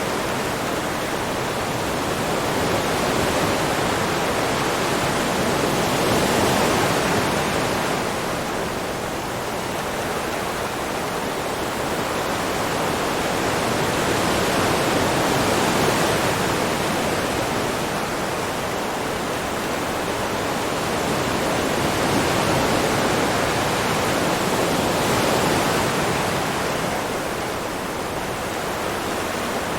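Steady rushing of water, swelling and easing slowly about every nine seconds.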